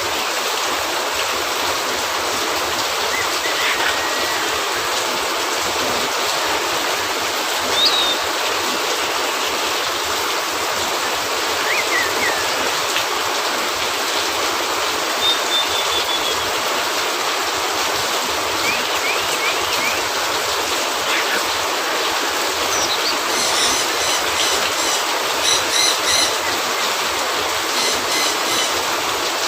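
Steady rain falling, an even hiss, with faint short chirps here and there and a run of quick ticks in the last few seconds.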